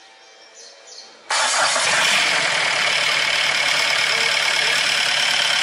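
Diesel engine with a rotary injection pump running loud and harsh, starting abruptly about a second in and cutting off suddenly near the end; it is being run while the pump timing is adjusted to cure its harsh noise.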